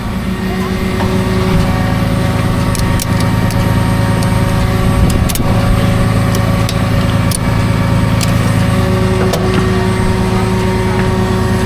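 Tow truck engine running at a steady speed, with a few light clicks over it.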